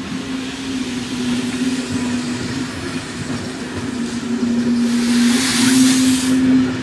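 Vintage passenger coaches of a steam-hauled special train rolling slowly past on the rails, with a steady low tone over the rolling noise. About five seconds in there is a loud hiss of steam escaping from the steam-heating under the last coach as it passes.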